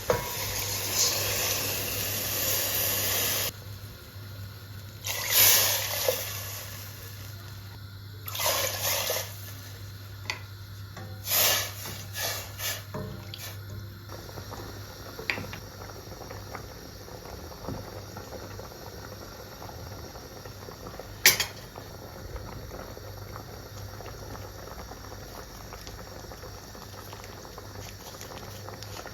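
Kitchen tap running for a few seconds, then several short splashes and a sharp clink of dishes, over a steady low hum.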